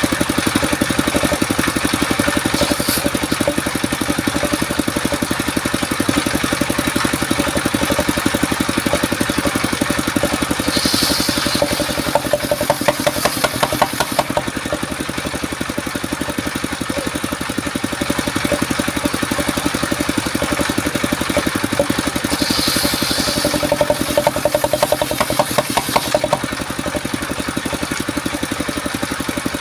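Engine of a mobile circular sawmill running steadily with a rapid even beat. Twice a brief hiss comes through, followed by a couple of seconds of sharper pulsing.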